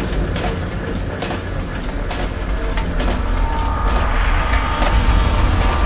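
Steady low rumble of a vehicle in motion, with scattered clicks and knocks, and a faint steady whine appearing about halfway through.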